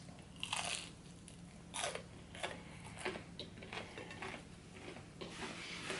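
Close-up eating sounds of fried shrimp in a light, crispy tempura-style batter: a bite, then irregular crunching and chewing, with the loudest crunches about half a second and two seconds in.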